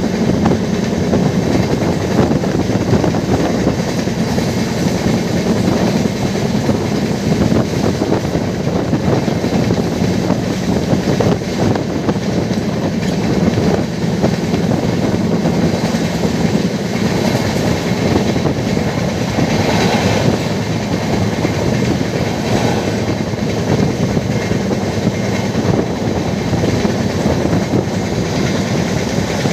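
Passenger train running at speed, heard from inside a coach: a steady rumble and clatter of the wheels on the rails.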